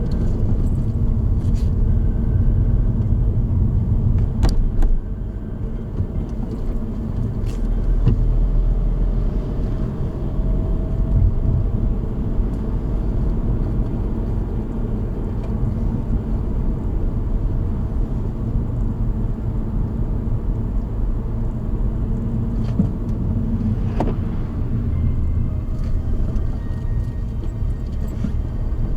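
Car on the move: a steady low rumble of road and engine noise, with a few brief knocks over bumps.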